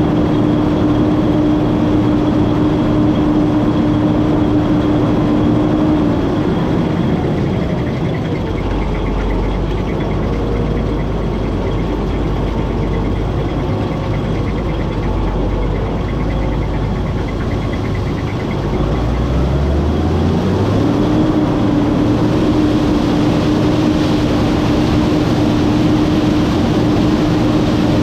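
Combine harvester running, its steady machine whine dropping away about six seconds in. A deeper rumble follows, then the pitch rises again around twenty seconds and the whine returns.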